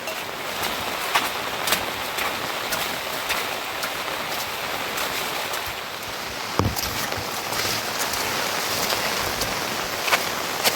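Steady rain with irregular louder drops ticking on nearby surfaces, and a dull thump about six and a half seconds in.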